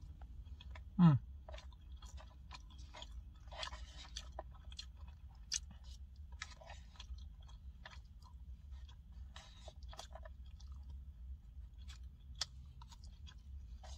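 A man chewing a mouthful of steak and rice close to the microphone, with many small wet mouth clicks and smacks. A brief vocal sound falling in pitch about a second in, over a low steady hum.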